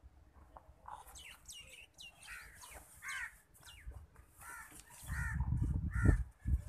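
Birds calling repeatedly in short, falling calls, then a loud low rumble about five seconds in.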